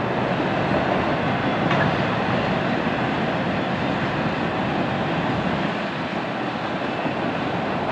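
Freight train autorack cars rolling past: a steady noise of steel wheels on the rails, easing a little about six seconds in as the end of the train moves away.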